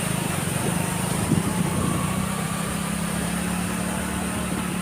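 Motorcycle engine running steadily while riding, with a steady hiss of wind and road noise over it.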